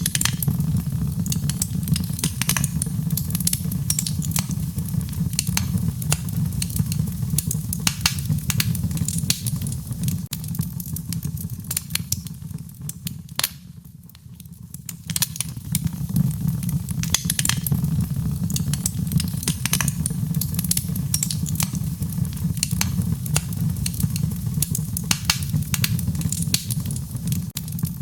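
Wood fire burning, with a steady low rumble and frequent sharp crackles and pops. The rumble dies down briefly about halfway through, around a single sharp pop, then comes back.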